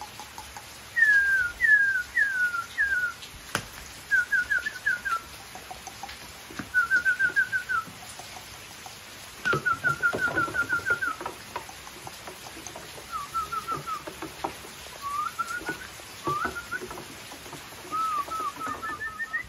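A songbird singing short runs of quick chirps, each run a few notes long and repeated after pauses of a second or two.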